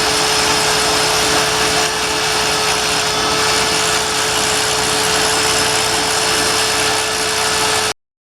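Die grinder running steadily with a constant whine, grinding a thin metal rib off an inside edge. The sound cuts off abruptly near the end.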